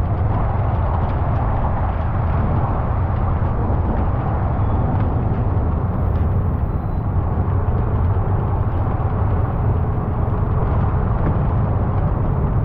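Car driving steadily: a constant low rumble of engine and road noise.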